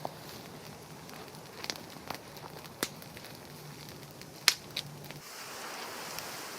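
Campfire crackling, with a handful of sharp pops over a steady low hiss; the loudest pop comes about four and a half seconds in.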